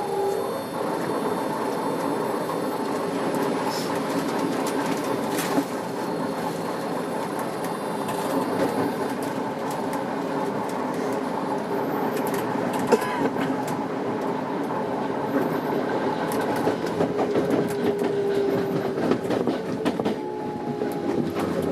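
Tokyo Metro 06 series electric train heard from inside the car while running, with wheels clicking over rail joints and a steady motor whine. Near the end the motor tone falls in pitch as the train slows.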